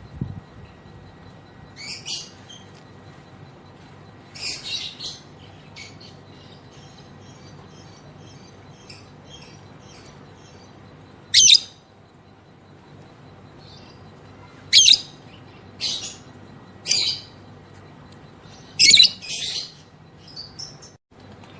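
Female lovebird calling with separate shrill chirps. A run of faint quick ticks comes in the middle, then five loud sharp shrieks follow in the second half.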